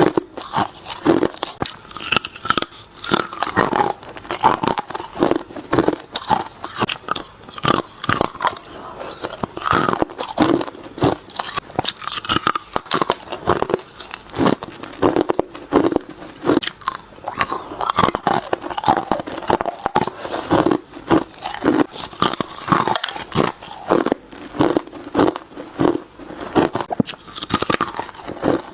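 Hard ice being bitten and crunched between the teeth, one sharp cracking bite after another.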